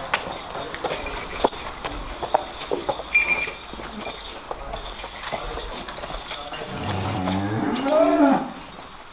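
A dairy cow moos once near the end, a single call of nearly two seconds that rises and then falls in pitch, over a steady high chirring of insects.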